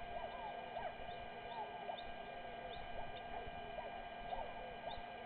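Many small birds chirping, short rising and falling calls overlapping several times a second, over a steady electrical hum.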